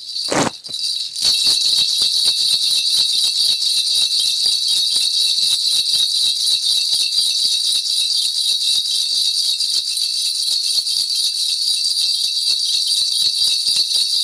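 A shaman's bell rattle, a cluster of small metal bells, shaken steadily in continuous jingling, as is done when calling on the spirits before a divination. It opens with a single thump.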